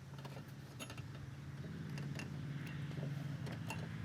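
Wrench working on a car's negative battery terminal clamp: light, irregular metallic ticks, a few a second, over a low steady hum.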